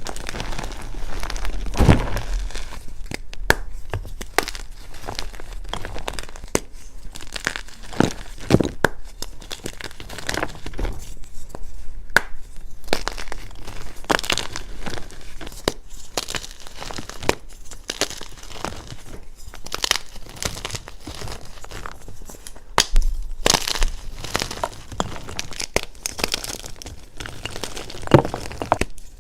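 Blocks of dyed Picsil gym chalk being crushed and crumbled: a continuous dry crunching and crackling, with louder snaps now and then as pieces break.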